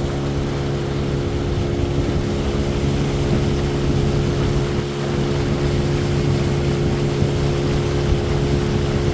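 Motorboat engine running at a steady speed, giving an even drone that does not change pitch.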